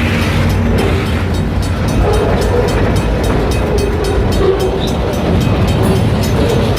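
Freight train rolling past close by: a steady low rumble of wheels on rail, with many quick clicks and rattles from the cars.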